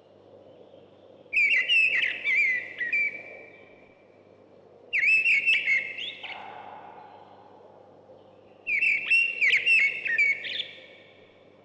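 A songbird singing three separate phrases of quick, whistled, repeated notes, each about two seconds long and a few seconds apart.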